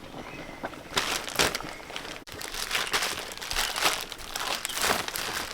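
Irregular crinkling and rustling of something being handled, in uneven bursts, with an abrupt break about two seconds in.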